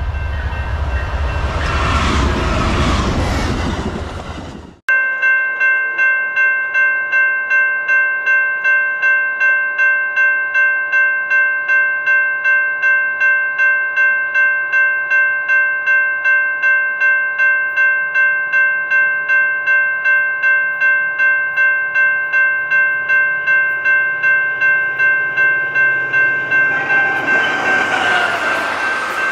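A passing train's rumble cuts off about five seconds in. A railroad grade-crossing bell then rings steadily, about two strokes a second, while a train's noise builds again near the end.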